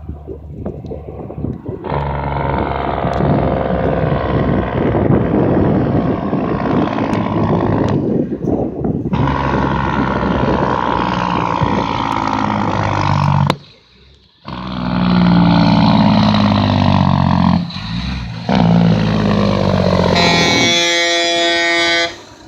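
Truck engine running loud and revving hard, with heavy noise over the engine note. It cuts out suddenly for about a second around the middle, and near the end a steady pitched whine takes over.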